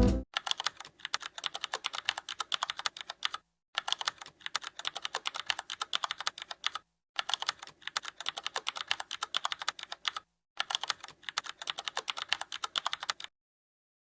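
Rapid, even clicking in four runs of about three seconds each, each run cut off abruptly by a short gap of dead silence.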